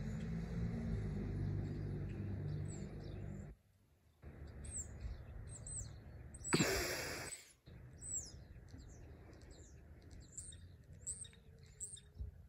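A low steady rumble with a hum cuts off about three and a half seconds in. Small birds then chirp in short, high, repeated calls, with one brief loud rush of noise about halfway.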